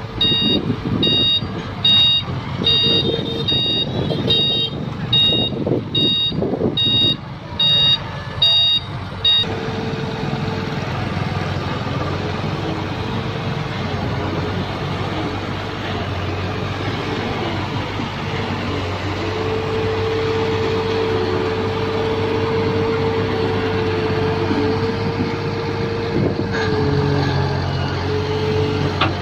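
Excavator engine running under work with its warning alarm beeping evenly, about one and a half beeps a second, until about nine seconds in, when the beeping stops. The engine and hydraulics carry on steadily, with a wavering steady tone that is strongest in the latter half.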